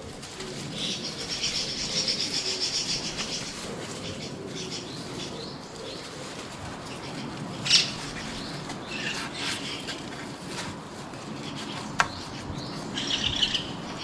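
Small birds chirping and trilling in quick runs of notes, loudest in the first few seconds and again near the end. Two sharp clicks stand out, the louder a little past halfway and another a few seconds later.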